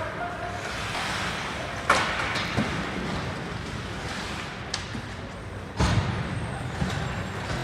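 Ice hockey game play in a rink: sharp knocks of sticks, the puck or players against the boards over a steady arena hum, with the loudest hits about two seconds in and again near six seconds.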